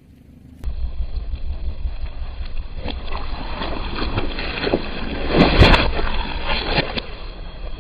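A car tyre rolling slowly over crunchy objects and crushing them: a run of crackles and crunches over a low engine-and-wind rumble, with the loudest crunching about two-thirds of the way through.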